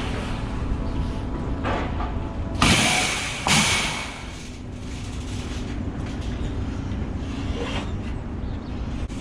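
Scrap metal being handled: loud metallic crashing and scraping about two and a half and three and a half seconds in, over a steady low engine rumble.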